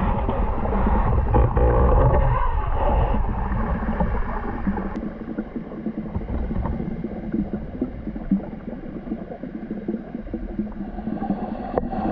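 Water gurgling and churning, heaviest for the first few seconds, then settling into a steady bubbling wash.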